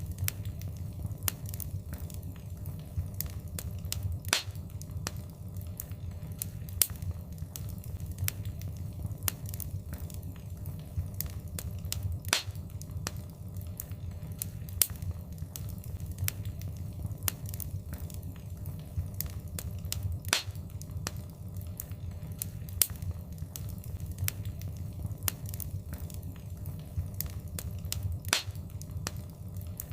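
Wood fire crackling, with a steady low rumble of flames under a constant scatter of small snaps and a louder pop every several seconds.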